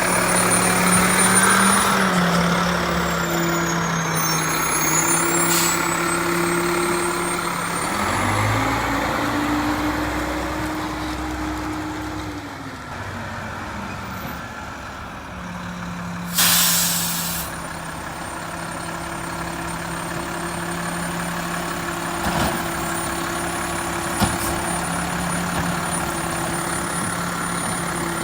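Mack LEU recycling truck's diesel engine idling, revving up about eight seconds in and settling back down a few seconds later. About halfway through there is a sharp hiss of air from the air brakes, lasting about a second.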